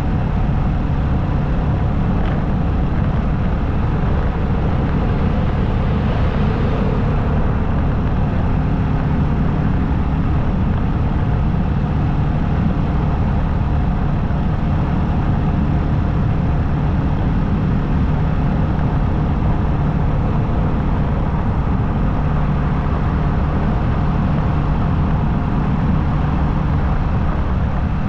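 Motorcycle engine running steadily at cruising speed, under a constant rush of wind and road noise.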